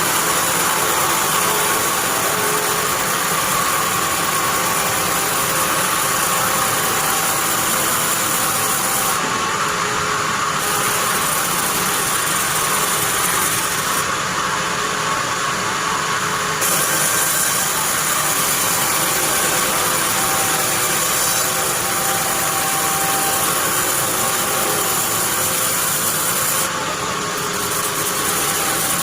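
Sawmill bandsaw machine running with a steady mechanical noise and a high whine that drops out briefly a few times.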